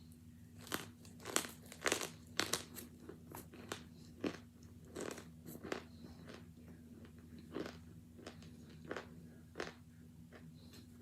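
A person biting and chewing hard, chalky chunks of boiled and frozen baby powder close to the microphone: irregular sharp crunches, coming thick in the first half and more sparsely after. A steady low hum runs underneath.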